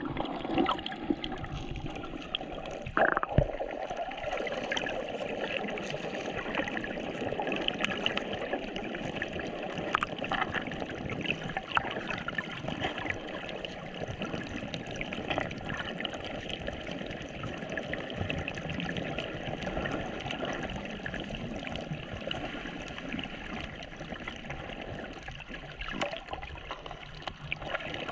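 Sea water gurgling and trickling around a camera in shallow water, a steady wash of water noise with scattered small clicks and pops.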